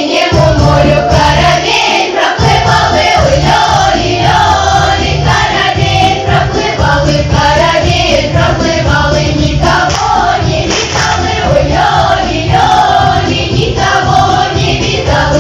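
A choir singing a melody in unison to instrumental accompaniment with a steady bass line, in the manner of a Russian folk song.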